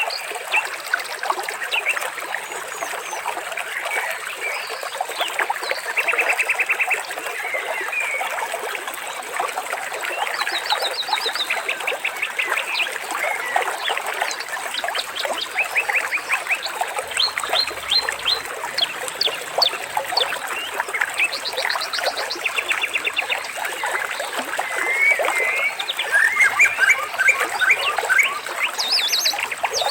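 Birds singing, with many short chirps and whistles and several rapid trills, over the steady rush of running water.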